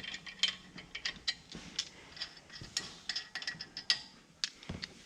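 A series of light, irregularly spaced mechanical clicks and taps, like tools or small metal parts being handled.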